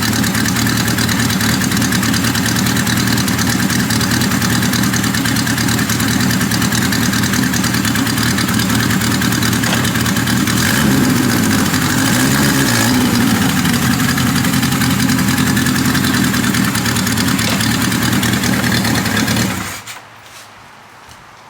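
1980 Kawasaki KZ1000 LTD's air-cooled inline-four engine idling steadily, its pitch rising and falling briefly about halfway through, then shut off near the end.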